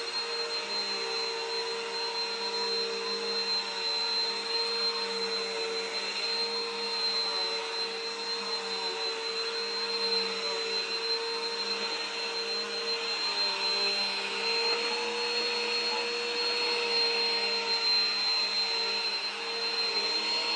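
Vacuum cleaner running steadily, a constant motor whine with a high tone over a rushing hiss of suction.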